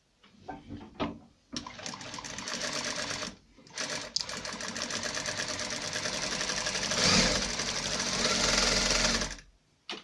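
Industrial sewing machine stitching through fabric in a test run. A few clicks come first, then a short run that stops, then a longer run that gets louder near the end before stopping.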